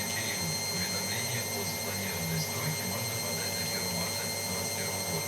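Hotpoint-Ariston washing machine running: a steady mechanical hum with an irregular low rumble and faint scattered ticking.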